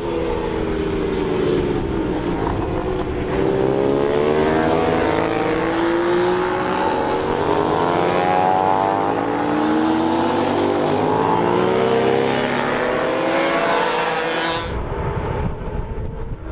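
Several racing motorcycles passing at full throttle, their engines rising in pitch again and again as they accelerate up through the gears. The sound changes abruptly near the end.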